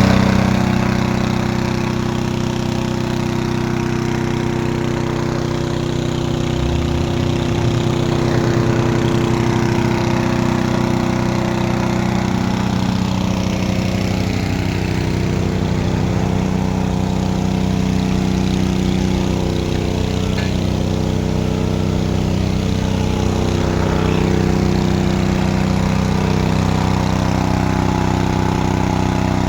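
Engine of a dewatering pump running steadily at a constant speed.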